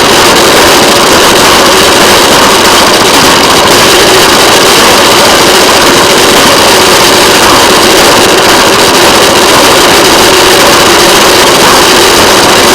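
Railway motorcar's small engine running steadily as the car travels along the track, heard loud and close with a constant rush of running noise.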